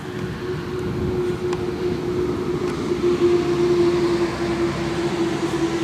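A steady mechanical hum with a low rumble, like a passing vehicle's engine, that grows louder over the first few seconds and then holds.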